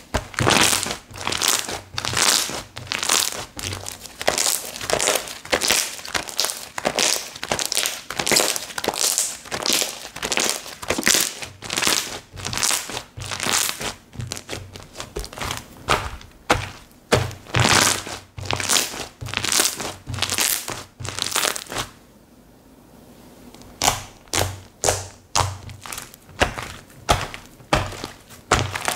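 Slime being squeezed, pressed and worked by hand, giving a dense run of short crackles and clicks, several a second. They stop briefly about 22 seconds in, then resume.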